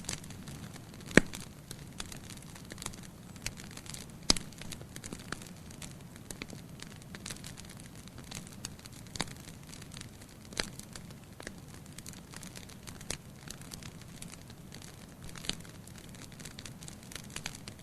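Wood fire burning in a fireplace, the logs crackling: irregular sharp pops and snaps over a steady low hiss, with the loudest pop about a second in and another just past four seconds.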